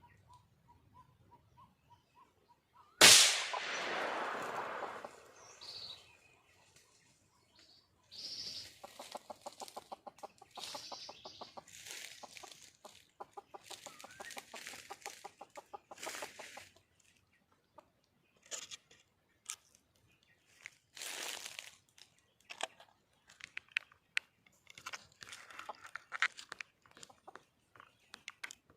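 Red junglefowl hen calling, long runs of rapid, evenly spaced clucks, the call a wild hen gives to draw a male. A loud sudden burst about three seconds in, and scattered shorter calls and clicks toward the end.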